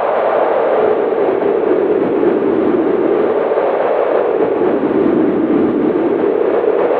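Cold winter wind howling steadily, its pitch sinking over the first few seconds and rising again near the end.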